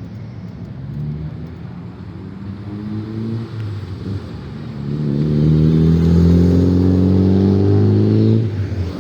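A car's engine and exhaust under throttle, getting much louder about halfway in, holding a steady note for a few seconds, then dropping away abruptly near the end.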